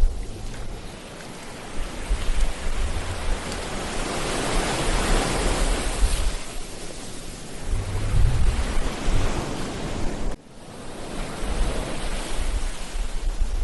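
Ocean surf washing onto a beach, one wave swelling and breaking over several seconds near the middle, with wind rumbling on the microphone. The sound drops suddenly for a moment about ten seconds in, then the surf and wind come back.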